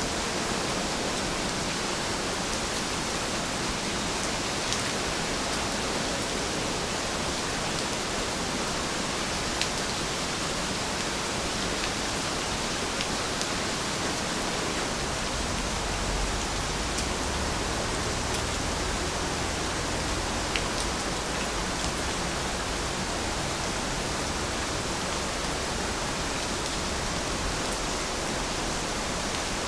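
Heavy rain falling steadily, a dense even hiss with a few separate drop ticks.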